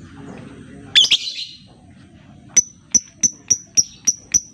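Lovebird calling: a loud, harsh squawk about a second in, then a run of sharp, high, evenly spaced chirps at about four a second that starts past the middle.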